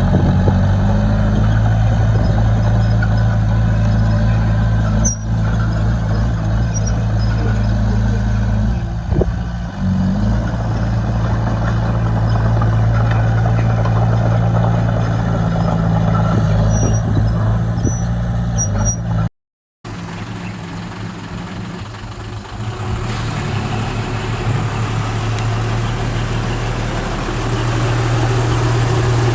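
Bulldozer's diesel engine running steadily under work, with brief dips in load. About two-thirds of the way through the sound cuts out for a moment, then the engine comes back quieter and builds up again toward the end.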